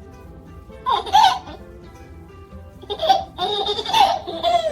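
Baby laughing in two bursts, a short one about a second in and a longer one from about three seconds on, over steady background music.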